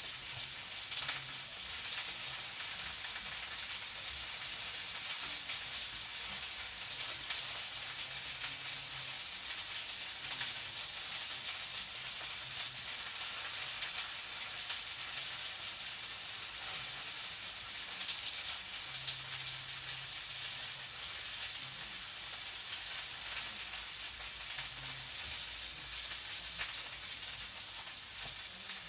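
Food frying in a pan, a steady crackling sizzle, with a faint low hum coming and going underneath.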